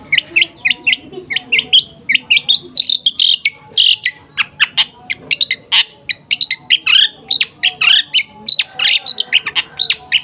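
A small caged bird chirping sharply and rapidly, a continuous run of house-sparrow-style calls, several short chirps a second.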